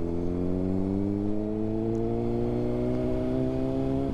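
Honda CBR600RR's inline-four engine, through a Yoshimura exhaust, pulling under throttle as the bike accelerates, its pitch rising steadily. Near the end the pitch drops abruptly as the revs fall away.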